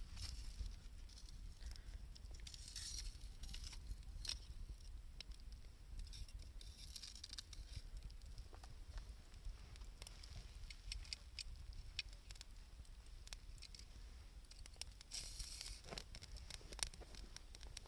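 Wood fire of 2×4 lumber offcuts and scavenged wood, burning with faint, irregular crackles and pops, a few sharper snaps near the end, over a steady low hum.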